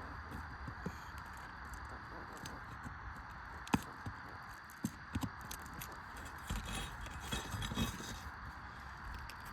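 Scattered light taps and clicks from handling during the shingle repair, with a sharper click a little before halfway and a cluster of taps in the second half, over a steady hiss.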